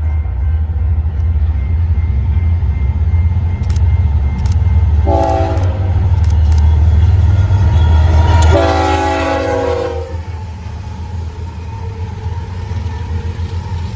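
Diesel train passing with a deep, loud engine rumble, sounding its multi-note air horn twice: a short blast about five seconds in and a longer one a few seconds later whose pitch slides down slightly as it goes by. The rumble eases off after the second blast.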